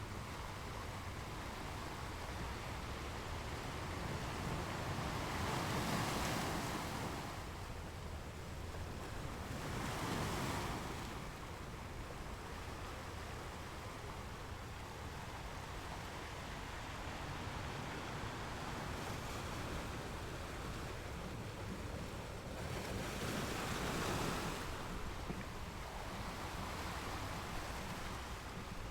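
Ocean waves breaking on the shore: a steady rushing wash with three louder surges as waves come in, at about six, ten and twenty-four seconds.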